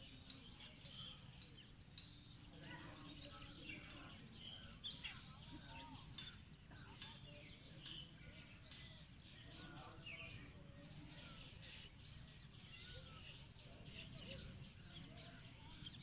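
A small bird repeating a short, high, rising chirp a little more than once a second, starting a couple of seconds in, over a steady low outdoor rumble.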